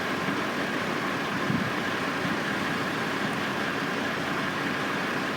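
Steady drone of construction-site machinery and engines running, with a faint steady high whine.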